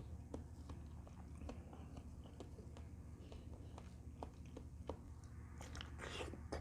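Soft close-miked sounds of a person eating fruit: irregular small wet clicks of chewing and biting. A brief noisy rustle comes about six seconds in.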